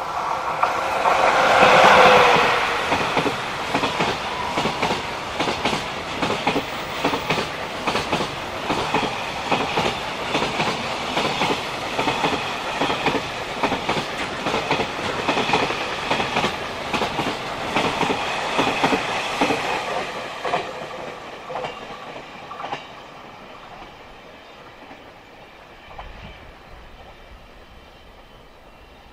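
Freight train passing: an electric locomotive goes by about two seconds in, the loudest moment, followed by a long string of container wagons whose wheels clickety-clack rhythmically over the rail joints. The sound fades away after about twenty seconds as the last wagons recede.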